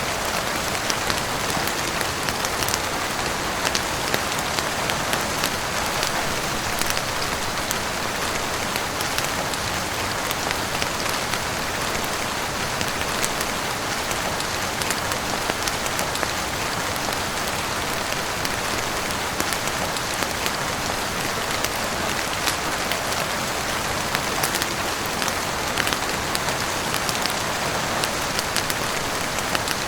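Steady heavy rain falling on a roof and windows, a dense even hiss with many scattered sharp ticks of drops or crackles.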